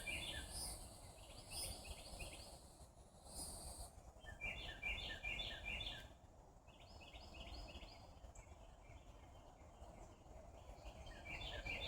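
A songbird singing bouts of quick repeated chirps, several times, over a faint high insect buzz and a low steady background hiss.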